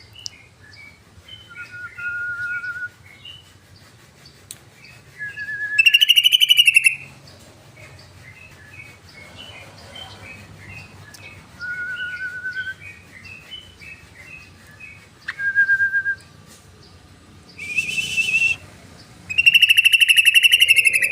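Yellow-vented bulbul calling: a run of short chirping notes with several drawn-out whistled notes mixed in, broken by three loud, harsh buzzing bursts, one about six seconds in, one near eighteen seconds and one near the end.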